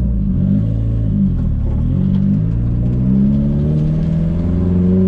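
Nissan S14's turbocharged four-cylinder engine under way: the revs rise and dip briefly, then climb steadily for about three seconds and fall off suddenly at the end, as with a gear change.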